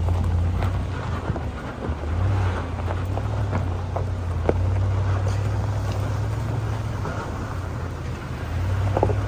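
Vehicle engine running with a steady low drone while driving slowly along a rutted dirt road, with scattered knocks and rattles as it jolts over the ruts.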